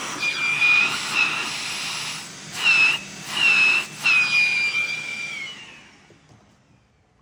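Compressed-air blow gun hissing and whistling in several blasts, blowing drill chips out of the drilled cylinder-block bolt holes before they are tapped. It trails off a little over five seconds in.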